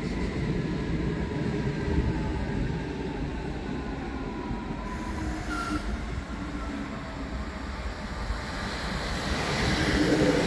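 ICE high-speed electric train running in alongside the platform, its rumble growing louder near the end as it draws level. Faint falling electric whines sound over the rumble.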